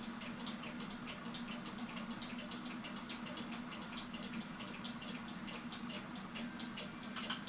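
Small irregular clicks and light rattling from cuckoo clock parts being handled and fitted, over a steady low hum, with a slightly louder click near the end.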